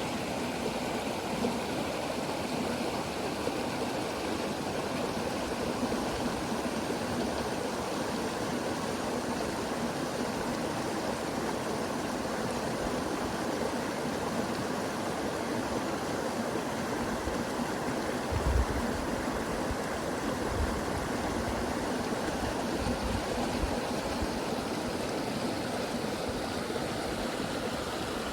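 River water flowing steadily, a constant rushing. A few low thumps come about two-thirds of the way through, the loudest one just past the middle.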